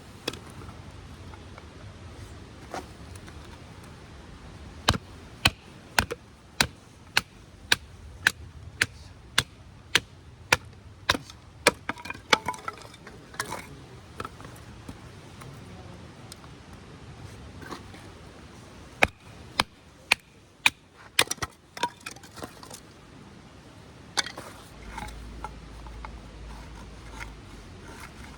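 Firewood being chopped: sharp knocks at a steady pace of about two a second, in two runs with a pause of several seconds between them.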